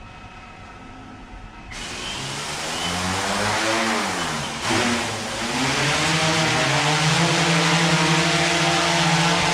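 Multirotor drone's electric motors and propellers spinning up on a test rig about two seconds in, with a loud rush of air. The pitch rises, dips briefly around the middle, then holds steady as the motors run at constant throttle, as in a lift-capacity test.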